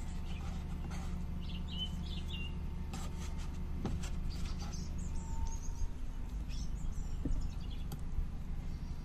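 Small birds chirping in short high calls, several times through the middle, over a steady low background rumble, with a few light clicks and knocks.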